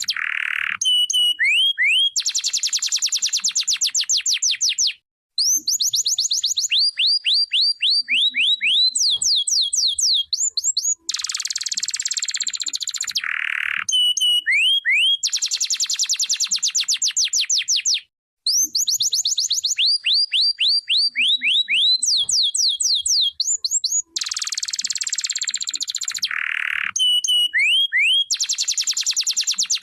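A canary singing: long, fast trills of repeated rising notes alternate with harsh, buzzy rolls. The same song sequence comes round again about every 13 seconds.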